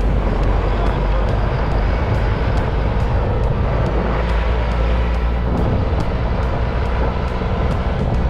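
Steady engine and road rumble of a moving vehicle, with a constant noise of wind and tyres over it.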